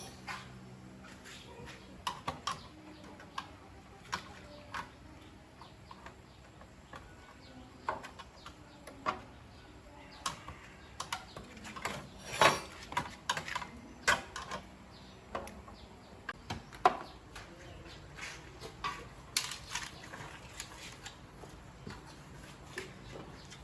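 Irregular light metallic clicks and clinks of small hard objects being handled, a few dozen spread unevenly, the loudest about halfway through.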